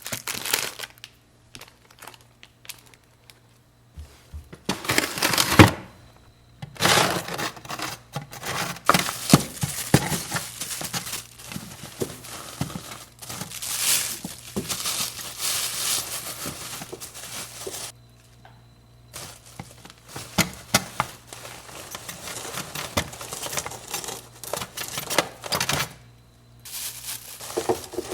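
Packaging crinkling and rustling in irregular bursts as it is handled, with short pauses in between.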